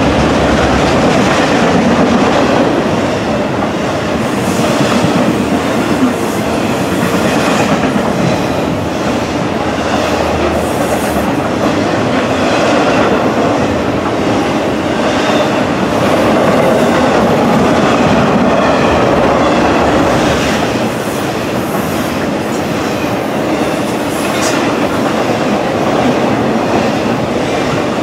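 A train rolling past on the mainline, its wheels clattering steadily over the rails for the whole stretch.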